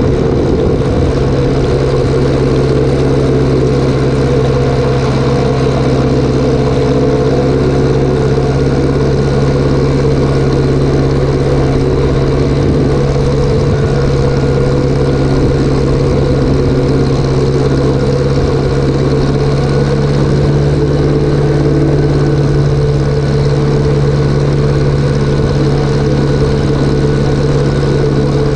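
Engine of farm machinery running steadily at a constant speed, loud and unchanging, while spreading chicken litter.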